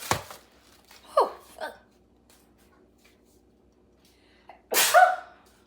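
A sharp knock, then short non-word vocal sounds: two brief falling grunts about a second in and a loud breathy exclamation near the end, over a faint steady hum.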